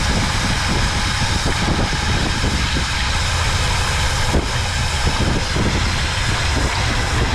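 Classic carbureted engine running steadily just after a cold start, with a loud steady rush of air from its engine-driven cooling fan; the owner takes the fan clutch to be shot.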